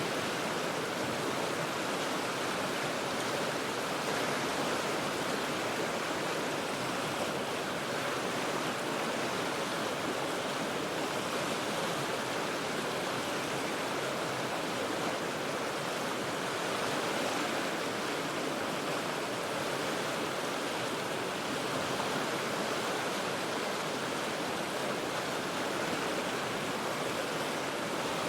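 River water rushing steadily, an even, unbroken rush with no separate splashes or events.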